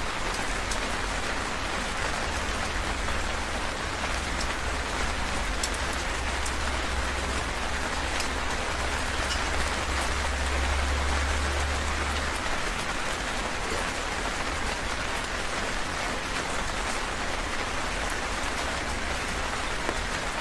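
Heavy rain falling steadily, a dense hiss with individual drops ticking through it. A low rumble underneath swells for several seconds about a third of the way in, then eases.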